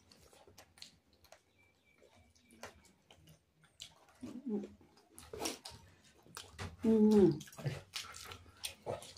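Close-up mouth sounds of people eating with their hands: wet chewing, lip smacks and small clicks, faint at first and busier from about halfway, with a few short murmured vocal sounds.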